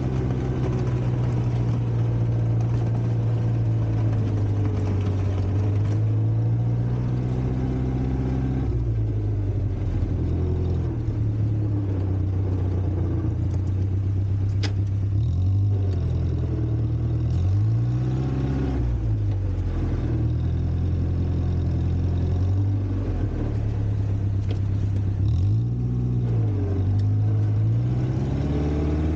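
Volvo four-cylinder gasoline engine of a 1960s Kalmar baggage tractor running under load, its pitch rising and falling in short revs several times, around halfway and near the end.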